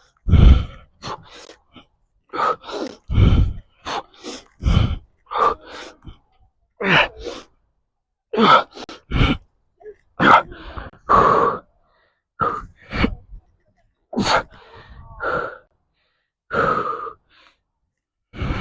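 A person's sharp, forceful breaths and gasps, repeated about once a second, from the strain of doing pull-ups one after another.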